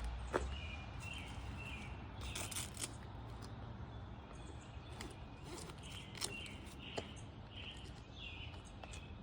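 Outdoor background with a small bird giving short chirps again and again, in two clusters early and late, and a few scattered sharp clicks and knocks.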